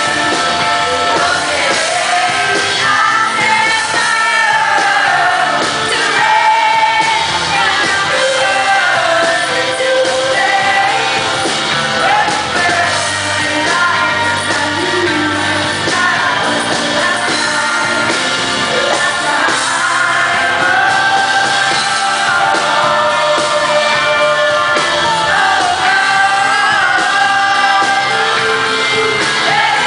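Live pop performance: a female lead vocal sings a power ballad over a full band, loud and steady.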